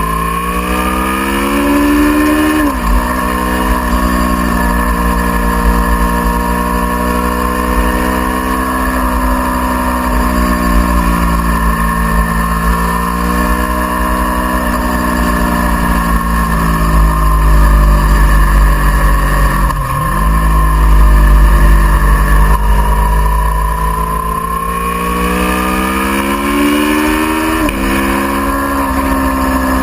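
Aprilia Tuono V4R's V4 engine pulling hard on track, its pitch rising through the revs and dropping sharply at shifts or braking about three seconds in, near twenty seconds and again near the end, over a heavy low rumble.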